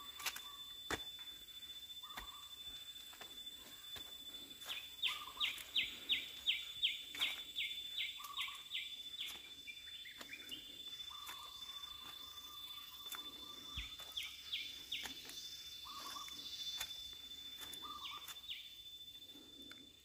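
Birds calling: a run of about a dozen quick rising notes, a little over two a second, then shorter runs of the same notes twice more, among short lower calls. A steady high-pitched whine runs underneath.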